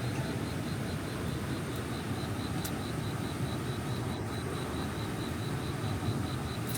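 Steady rushing of a fast-flowing mountain stream, a low, even wash of water noise. Over it runs a faint, high pulsing tone at about three pulses a second.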